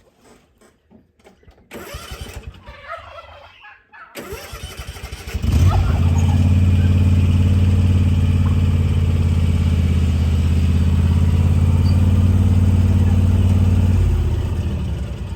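An engine starts about five seconds in and runs at a steady speed with a low, even hum, then winds down near the end.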